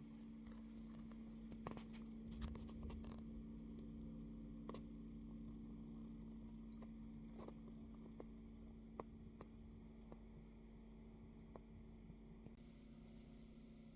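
Faint, scattered small clicks and taps, a cluster of them about two to three seconds in and then single ones every second or two, over a steady low electrical hum.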